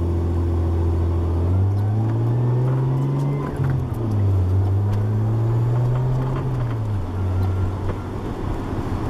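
Nissan RB20DET turbocharged straight-six, heard from inside the car, pulling up through the revs. The revs drop sharply at an upshift a little before the halfway point, climb again, then fall back and settle to a steady cruise about three-quarters of the way through. It runs through a near-straight exhaust with a test pipe and only a rear muffler.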